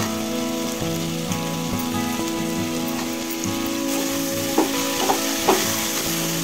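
Potatoes and peas frying with a steady sizzle in masala in a steel pressure cooker as a steel ladle stirs them, with three sharp clinks of the ladle against the pot about four and a half to five and a half seconds in.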